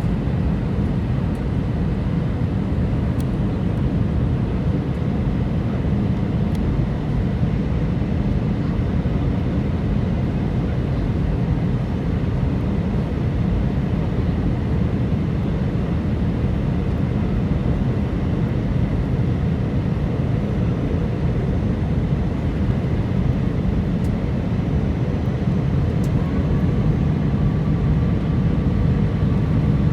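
Airbus A319 turbofan engines running, heard as a steady, even low rumble with faint steady tones above it. A faint higher tone joins near the end.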